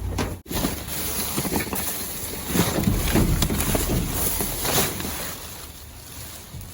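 Wind buffeting the microphone with a low rumble, and irregular rustling and knocking of items being handled, heaviest from about two and a half seconds in.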